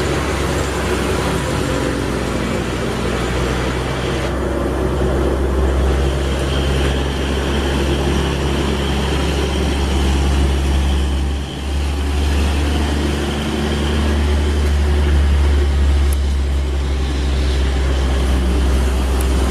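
A motor vehicle engine running steadily, a loud low rumble with a brief dip about eleven and a half seconds in.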